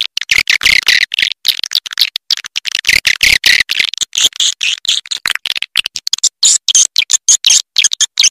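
Swiftlet lure call (suara inap): a recorded, edited track of rapid, high chattering chirps and twitters, chopped by many short gaps. It is played to draw swiftlets in to roost.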